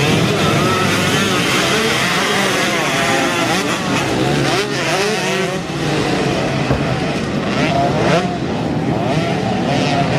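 Motocross bike engines revving up and down, several at once with their pitches overlapping.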